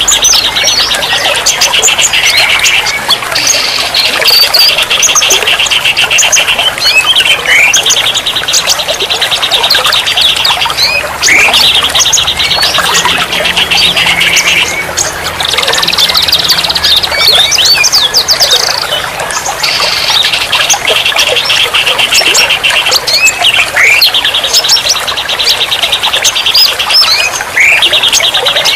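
Songbirds singing together. A fast, rattling trill repeats in bouts of about three seconds each, with short chirps and whistled sweeps in between.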